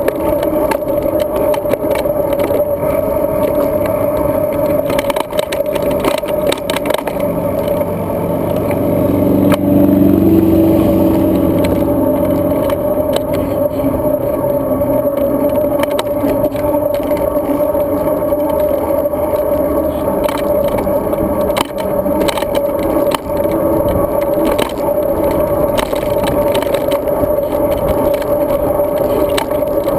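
Rushing wind and road noise from a camera riding on a moving road bike, with a steady hum throughout. About eight seconds in, an engine passes close by, its note swelling and then fading over a few seconds.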